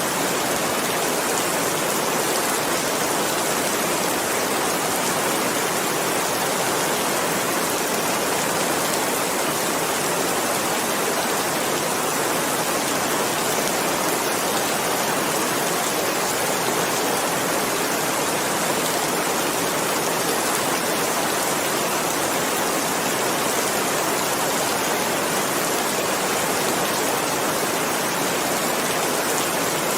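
Steady, unbroken rain falling, a dense even hiss of many drops with no distinct single drops or changes.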